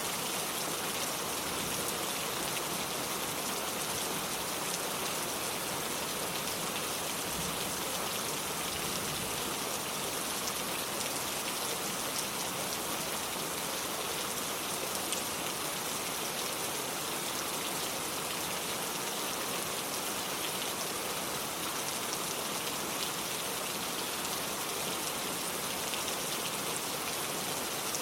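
Steady rain falling, a constant hiss with fine patter of drops on hard surfaces.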